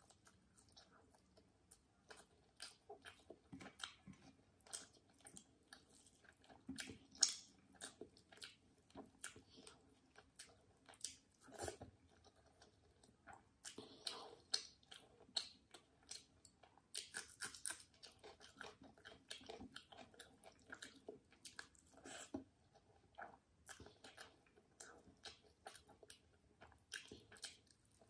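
Close-miked chewing of chicken and rice eaten by hand: an irregular run of many short mouth clicks and bites.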